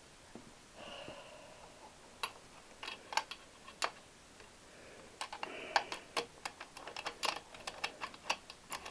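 Irregular sharp metallic clicks and taps of a spanner working nuts tight, starting about two seconds in and coming thicker in the second half, with a brief metallic ring or squeak twice.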